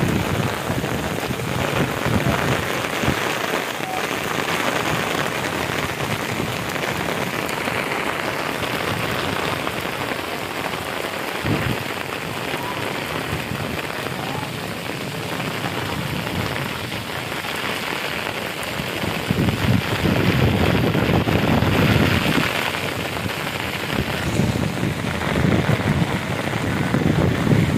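Heavy rain pouring onto wet ground and standing water, a dense steady hiss. A deeper low rumble swells up in the last third.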